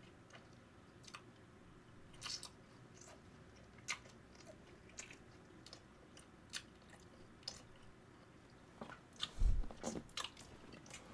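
A person chewing a mouthful of fried food close to the microphone: soft, scattered crunches and mouth clicks, with a louder knock and a cluster of crunches about nine to ten seconds in.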